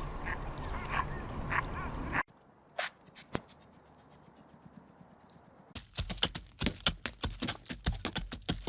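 Ducks quacking in short repeated calls. The quacking breaks off about two seconds in and, after a nearly quiet stretch, starts again about six seconds in as a quick, dense run of sharp quacks.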